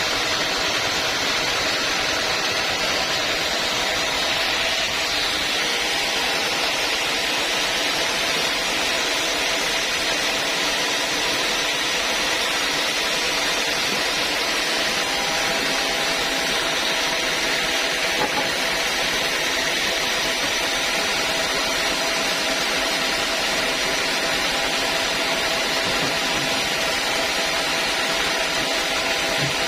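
Sawmill saw running steadily, an even continuous noise with a few faint steady tones and no pauses.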